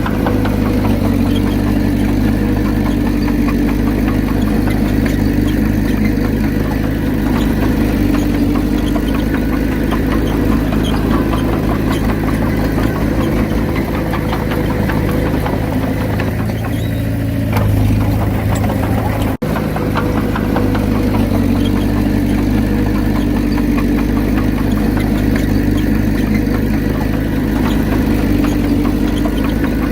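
Diesel engine of a Komatsu D31P crawler bulldozer running steadily while it works, its note shifting briefly about 17 seconds in.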